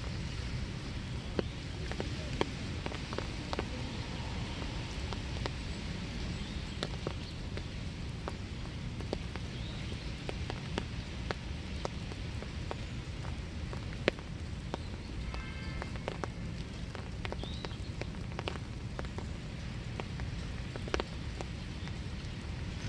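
Steady winter rain falling in woodland, with many separate drops ticking sharply on surfaces. About fifteen seconds in, a short bird call of quick repeated notes sounds over the rain.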